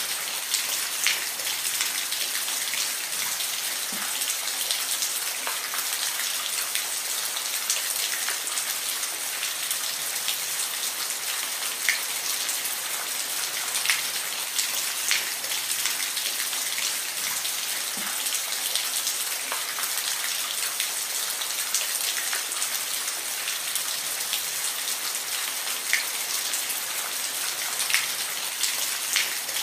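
Steady rain falling, a continuous hiss with scattered single drops ticking distinctly on a surface.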